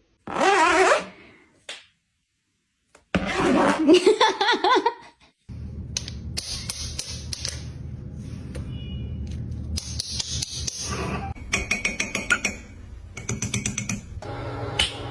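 A parrot making two bursts of warbling, laughter-like calls with a fast wobble in pitch, the second longer, followed by a steady low hum with scattered clicks and taps.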